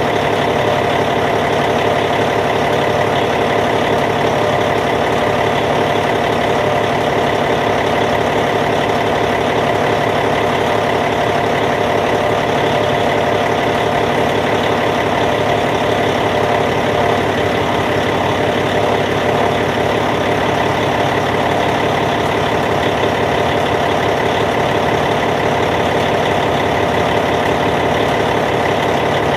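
Caterpillar C15 diesel engine of a Cat D8T idling steadily at an even pitch, with a fast, even pulse.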